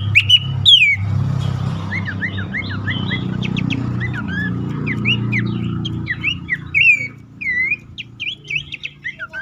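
Horsfield's babbler (pelanduk semak) calling: a rapid run of short, sliding whistled notes, some falling and some rising. A steady low hum runs underneath and fades about seven seconds in.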